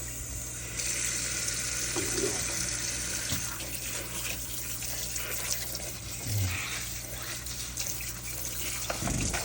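Kitchen tap running cold water into the sink while salted chicken wings are rinsed under it, the water hiss growing brighter about a second in as the flow hits the chicken.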